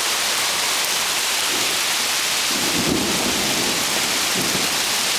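Torrential rain pouring down steadily, with a low rumble of thunder swelling about halfway through.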